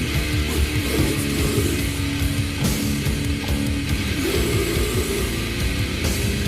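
Technical thrash/death metal recording: distorted electric guitars, bass and drums playing continuously.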